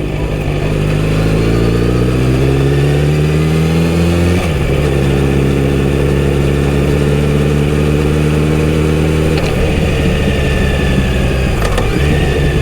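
Kawasaki Z900RS inline-four engine through its stock full exhaust system, pulling with rising pitch, then dropping sharply in pitch about four and a half seconds in as it shifts up. It pulls steadily again in the next gear, then eases off after about nine seconds.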